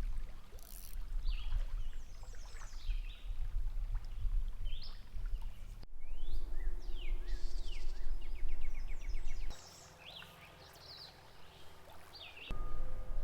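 Several songbirds chirping and singing, with a fast trill about halfway through, over a steady low rumble of outdoor noise by a stream. The rumble drops away for a few seconds after the middle, then returns.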